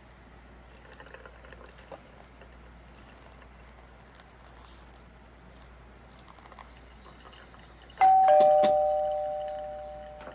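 A two-note ding-dong chime, a higher note then a lower one, rings out slowly about eight seconds in. Before it there are faint high chirps of insects, repeating about three times a second near the end.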